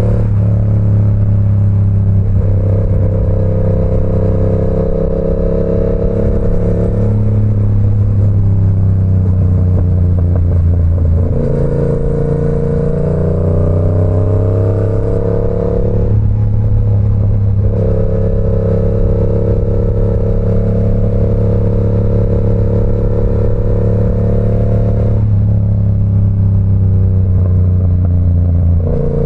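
Yamaha R7's 689 cc parallel-twin engine, breathing through an SC Project CR-T exhaust, running under way at fairly steady revs. Its pitch shifts several times as throttle or gear changes.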